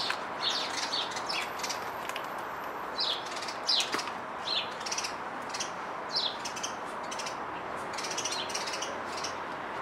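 Small birds chirping: short, high chirps in irregular clusters over a faint steady hiss, with a single sharp click about four seconds in.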